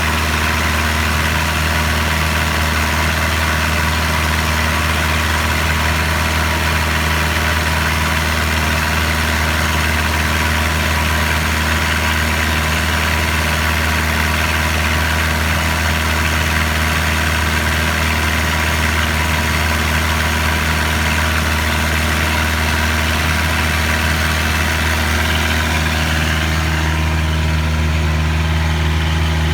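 Boat engine running steadily with a deep, even hum; its tone shifts slightly near the end.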